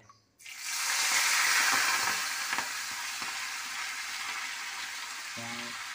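Food sizzling in hot oil in a steel kadai, starting suddenly about half a second in as ingredients hit the pan, loudest for the first second or two and then settling into a steady frying sizzle.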